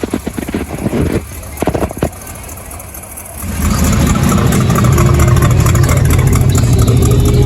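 A few sharp knocks, then about halfway through a car engine comes in loud and keeps running with a low, rough rumble.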